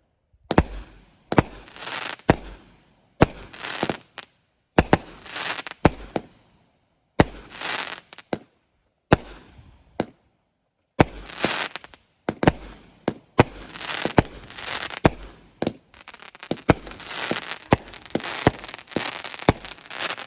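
Consumer fireworks going off in quick succession: a sharp bang about once a second, each followed by a trail of crackling. After a short pause about ten seconds in, the shots come faster and overlap near the end.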